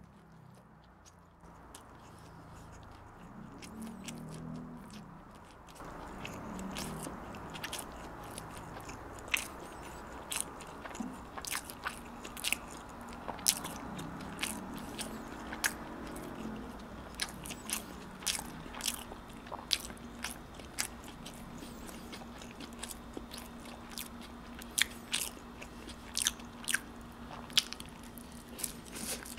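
Close-miked chewing of pizza bread: a quieter start, then from about nine seconds in a run of many sharp, crisp crunches and mouth clicks.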